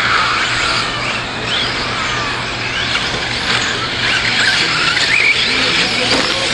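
Several radio-controlled 4WD short course trucks racing together, their motors whining and rising and falling in pitch as they accelerate and slow around the track.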